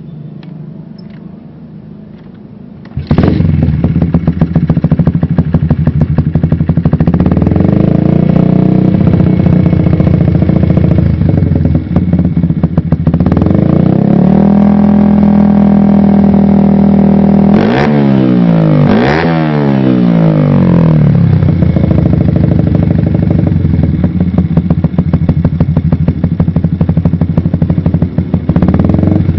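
Yamaha Jupiter MX single-cylinder four-stroke motorcycle engine running through a CLD Racing C3 aftermarket exhaust. It is fairly quiet at first, becomes much louder about three seconds in, then is revved up and held. Near the middle come a few quick throttle blips that sweep up and down, before it settles back to steady running.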